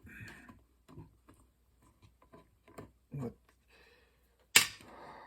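Scattered light clicks and taps as the small steel enclosure of a Macintosh external floppy drive and its tools are handled for disassembly, with one sharp clack a little before the end.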